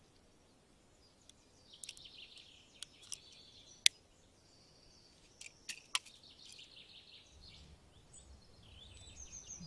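Faint birds chirping in short scattered runs, with a sharp tick about four seconds in and another about six seconds in. A faint low rumble comes in near the end.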